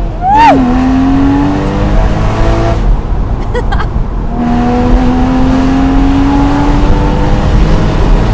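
Porsche Boxster Spyder's mid-mounted flat-six accelerating hard with revs climbing. There is a quick rev blip just after the start, a gear change around three to four seconds in, then a long pull up through the next gear, with wind rushing past the open cockpit.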